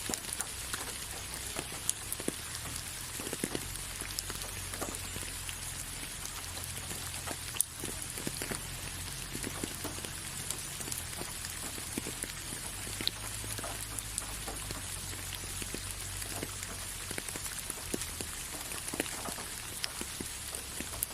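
Steady rain, with many separate drops striking close by as sharp little ticks over the even hiss of the downpour, and a steady low rumble underneath.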